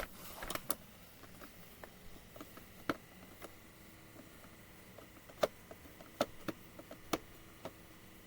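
Irregular sharp clicks and light taps of a screwdriver working a screw into the plastic belt cover of an Oreck upright vacuum, the screwdriver not fitting the screw well. About a dozen clicks, spaced unevenly.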